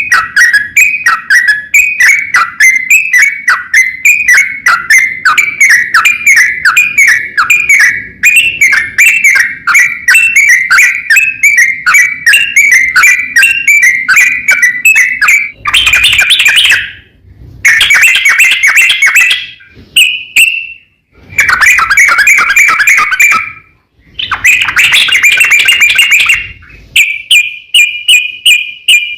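Yellow-vented bulbul (trucukan) singing its long chattering 'ropel' song: a fast run of repeated notes, then louder, longer bursts of chatter broken by short pauses about halfway through, and a held single note near the end.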